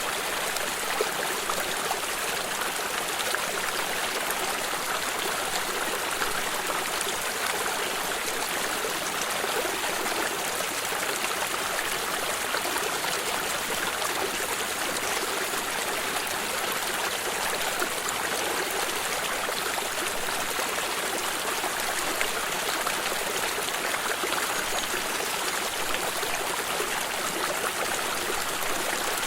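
Water flowing in a small stream, a steady babbling and trickling rush with fine splashes.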